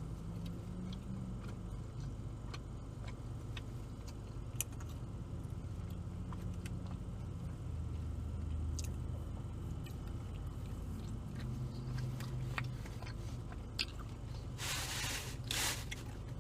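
A man chewing BBQ chicken pizza, with small wet mouth clicks, over a steady low hum of a car. There is a brief rustle near the end.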